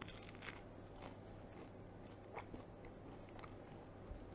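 Biting into and chewing crisp roasted naan bread close to a clip-on microphone: faint, scattered crunches over a steady low hum.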